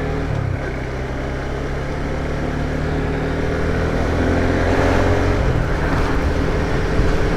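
Suzuki Gixxer 250's single-cylinder engine running under way, with wind and road rush; the engine note holds fairly steady and grows gradually louder.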